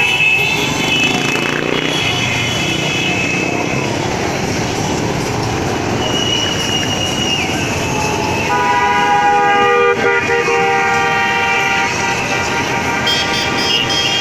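Vehicle horns honking in long held tones, several overlapping into a chord about eight and a half seconds in, over the steady noise of motorcycle engines in a biker parade.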